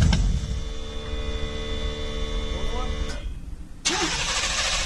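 Pickup truck engine running just after being started, a steady hum with a few fixed tones. About three seconds in the sound almost drops out, then comes back as a steadier, hissier running noise.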